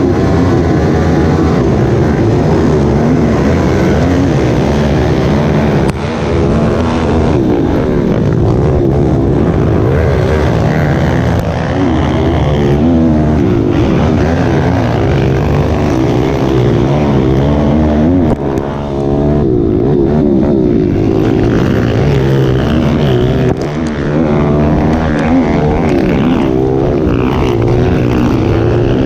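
Dirt-bike engine revving hard, its pitch rising and falling as the throttle is worked, with the throttle briefly cut about three times.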